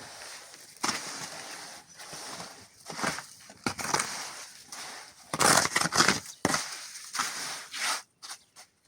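Gritty scraping of a hand tool working through a sand-and-cement mortar in irregular strokes, loudest about five and a half seconds in and stopping about eight seconds in.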